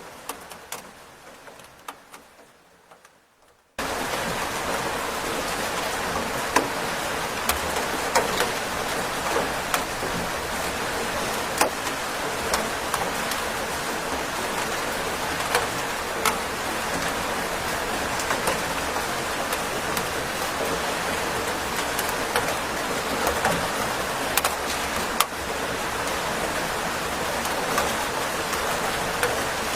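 Rain: for the first few seconds a fading patter with separate drops ticking, then about four seconds in a steady downpour starts abruptly, with scattered sharper drop hits.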